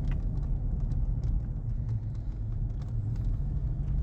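Car running on the road, heard as a steady low rumble of engine and road noise, with scattered faint ticks.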